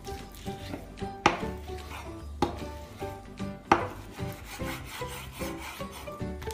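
Chef's knife slicing through raw beef on a bamboo cutting board, with the blade rubbing through the meat and knocking sharply on the wood twice, over background music.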